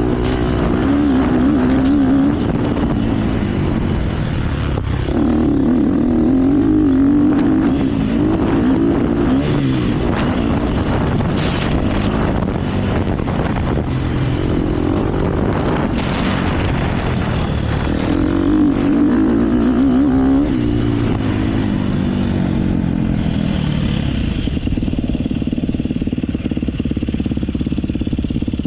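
KTM motocross bike's engine heard on board, revving up and down again and again as it is ridden. About 23 seconds in, it settles to a steadier, lower note.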